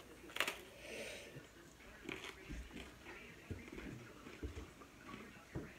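A person chewing a mouthful of food, faint and wet, with small scattered clicks and soft knocks and a brief breathy hiss about a second in.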